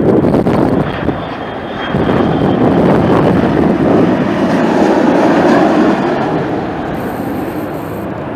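Jet airliner's engines roaring as it passes, a loud steady rumble with wind buffeting the microphone.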